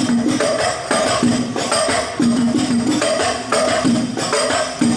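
Al Banjari frame drums (terbang) playing a repeating, interlocking rhythm of pitched strokes, with no vocals.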